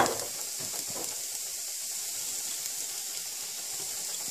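Cauliflower and potatoes frying dry in a pan on medium heat, giving a steady soft sizzling hiss. It opens with one sharp knock.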